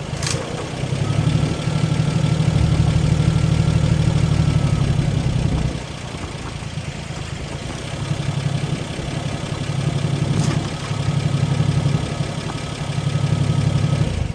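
Old haystacker's engine running, its deep note swelling louder for a few seconds and easing back several times. A sharp click sounds just after the start and again about ten seconds in.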